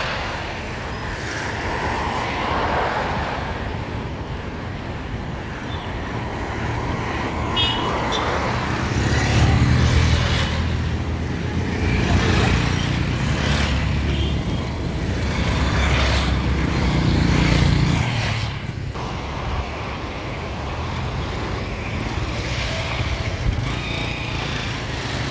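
Road traffic noise with vehicles passing. A heavy engine drones loudest from about nine seconds in until about eighteen seconds.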